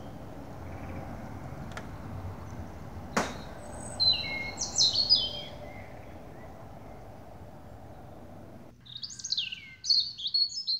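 Songbirds singing in short, bright chirping phrases, about four seconds in and again near the end, over a steady low outdoor hiss. A single sharp click comes about three seconds in. The background hiss cuts out about nine seconds in while the birdsong goes on.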